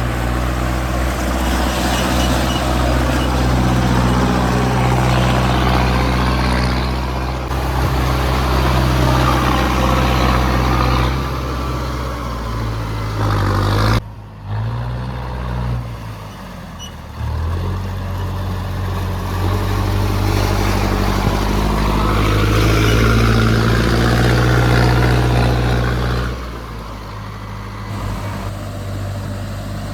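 Mahindra Arjun Novo tractor's diesel engine running under load, its pitch rising and falling. The sound breaks off sharply about halfway through, dips for a few seconds, then comes back up, and drops a little near the end.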